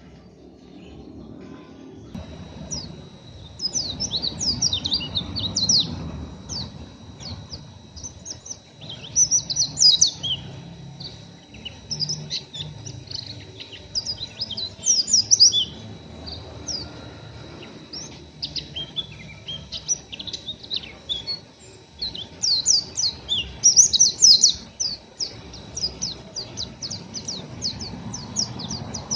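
A white-eye (pleci) giving its rough, rapid twittering in repeated bursts of quick high chirps, typical of a still-untrained bird. Two faint steady high tones run behind it.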